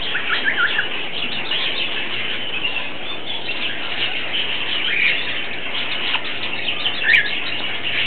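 Cage birds chirping and twittering without pause in a dense chorus, with a few louder chirps standing out about half a second in, around five seconds and just past seven seconds.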